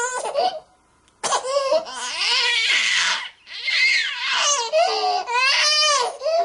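Baby crying hard in repeated wails. It breaks off for a breath about half a second in, resumes with a raspy, strained cry, then goes on into high, wavering wails.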